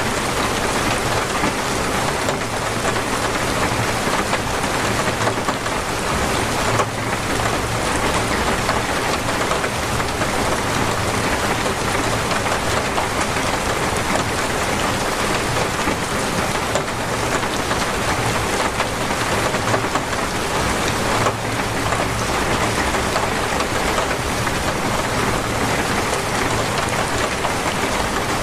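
Heavy, steady rain pouring down, a dense even hiss with only small swells in level.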